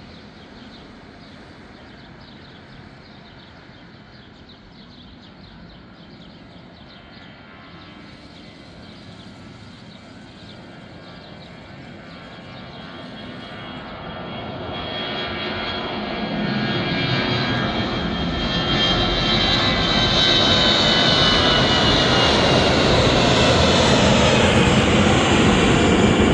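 Airliner engines spooling up to takeoff thrust. A low steady hum for about the first half, then a rising whine and rumble that grows loud over several seconds and stays loud.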